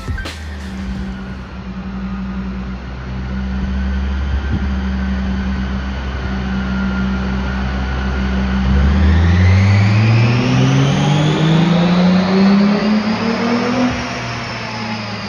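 Volkswagen Corrado's VR6 engine running steadily, then its revs climbing smoothly for about five seconds before dropping back to a steady note near the end. The engine is down on a cylinder.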